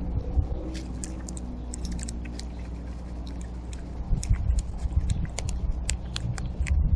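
Scattered short, sharp clicks and crunches of seed being picked and cracked at a backyard bird feeder, over a steady low rumble.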